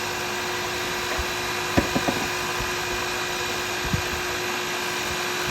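Wood lathe motor running with a steady hum, with a few light knocks of tools being handled about two seconds in and again near four seconds.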